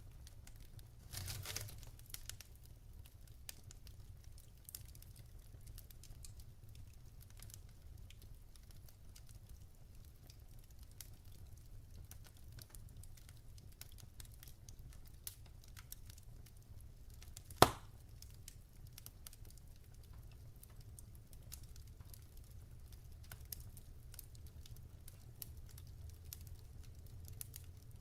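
Wood fire in a fireplace crackling with scattered small ticks and pops over a low steady rumble, a short flurry of crackle about a second in and one loud sharp pop a little past halfway.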